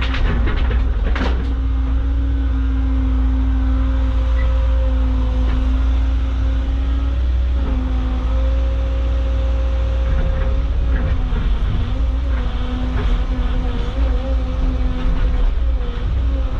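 Cat excavator's diesel engine running steadily under working load, its pitch dipping briefly about halfway and wavering near the end. A few sharp knocks come in the first second or so.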